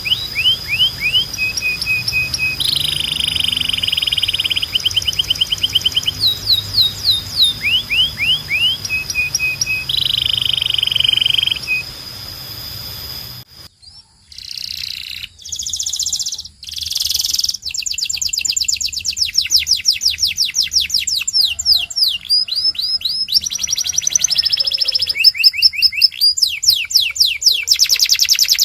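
Canary singing: rapid runs of repeated rising notes and fast rolling trills, high-pitched and continuous. Just under halfway through the song breaks off briefly, then resumes with dense, fast trills.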